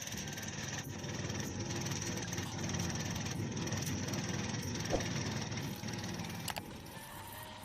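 Engine of a heavy forestry machine running with a rough, rapidly pulsing rumble, with a single sharp knock about five seconds in.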